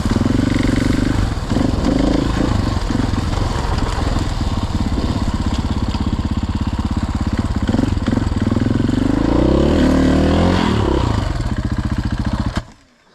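Dirt bike engine revving hard and working under load, with the revs swinging up and down and climbing high about eight to ten seconds in. It cuts off suddenly near the end.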